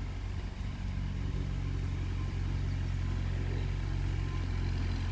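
A vehicle engine running steadily with a low hum. It grows a little louder over the first second or so, then holds.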